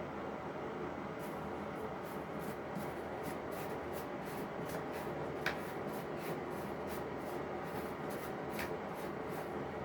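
A cat scuffing against fabric: soft, scratchy rubbing strokes, about two to three a second, over a steady hiss, with one sharper click about halfway through.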